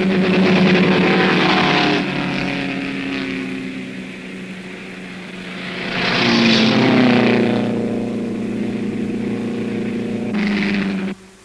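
Racing car engines running hard as cars pass in turn, swelling loud three times: at the start, around the middle and near the end. The sound cuts off abruptly just before the end.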